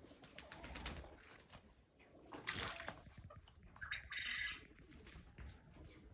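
Farmyard poultry sounds: two short, loud, noisy bursts, about two and a half and four seconds in, over fainter rustling and bird noises.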